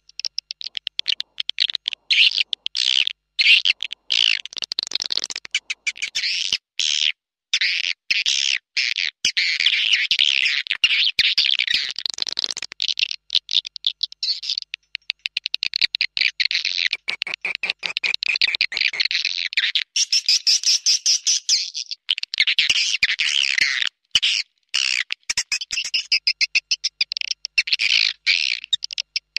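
Swiftlets calling: a dense, continuous stream of rapid, high chirping twitters and trills, broken by brief gaps. This is the kind of swiftlet call recording played to lure swiftlets to nest.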